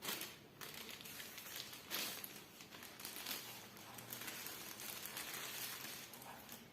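Rustling and crinkling, as of packaging being handled, with a few sharper knocks among it.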